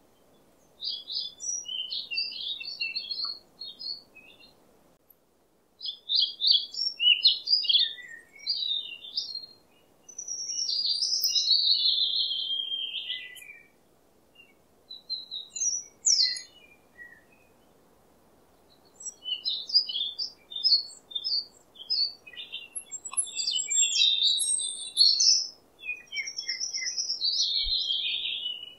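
A wild songbird singing in bouts of quick, varied chirping phrases, some with long falling notes, with pauses of a second or more between bouts. A faint steady hiss lies underneath.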